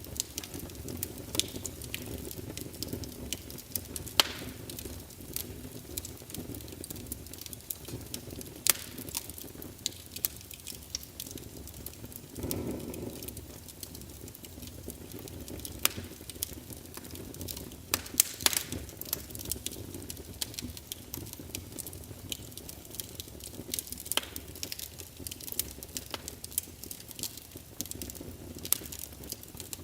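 Wood fire burning in a fireplace: logs crackling with irregular sharp pops over a low, steady background of flame noise.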